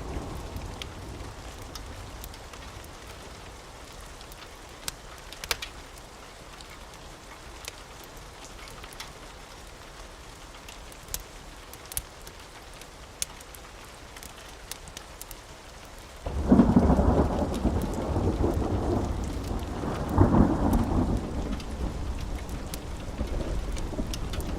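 Steady rain with a few sharp crackles. About 16 seconds in, a loud roll of thunder breaks in suddenly, swells again a few seconds later and keeps rumbling to the end.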